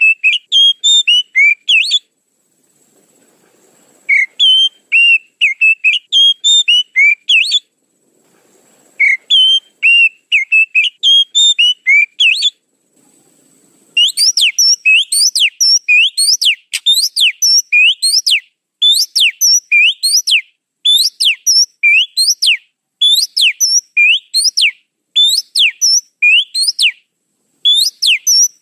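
Oriental magpie-robin (kacer) song used as a lure call: three quick phrases of clear whistled notes separated by short pauses, then, about halfway through, a fast unbroken run of sharp rising whistles repeated about twice a second.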